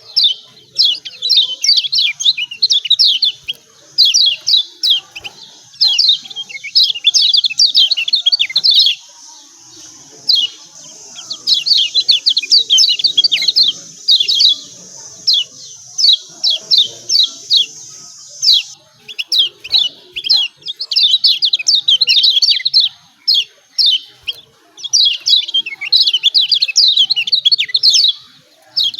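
Yellow white-eye (kecial kuning) giving rapid 'ciak ciak' calls: fast runs of sharp, high, downslurred chips in bursts of a second or two, broken by short pauses. This is the call used as a lure to set other kecial kuning singing.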